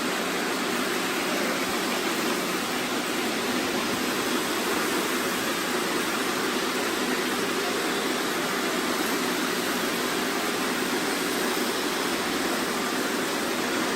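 Many robot vacuums running at once, making a steady, even whirring noise.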